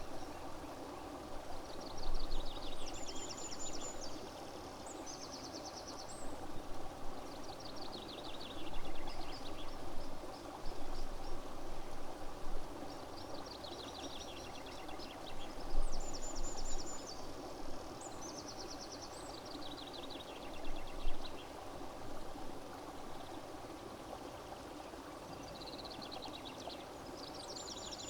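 A songbird singing the same short trilled phrase again and again every few seconds, high-pitched, over a steady rush of running water.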